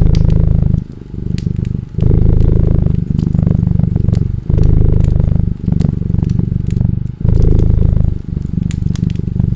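Cat purring close up, in a steady rhythm that swells and dips about once a second with each breath in and out. Sharp pops and crackles from a wood fire sound over the purr.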